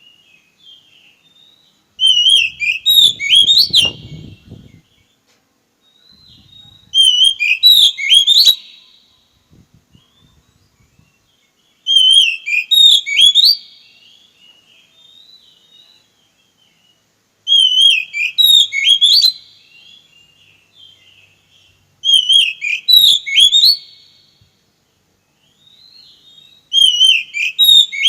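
A songbird singing one short whistled phrase of about two seconds, high-pitched and loud, repeated six times about every five seconds with quiet gaps between.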